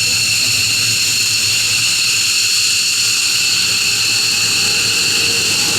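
Jet aircraft engine running steadily, a high-pitched whine of several held tones over a loud hiss.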